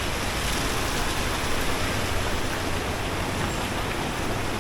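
Steady rain falling, an even hiss with a low hum underneath that fades about halfway through.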